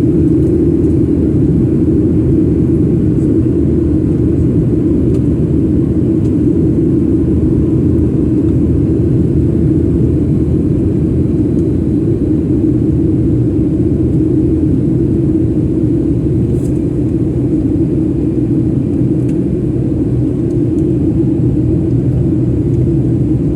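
Steady cabin rumble of an airliner in flight, heard from inside: engine and airflow noise.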